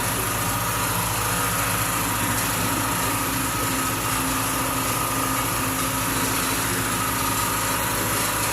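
A machine running steadily, an even mechanical hum and hiss that does not change.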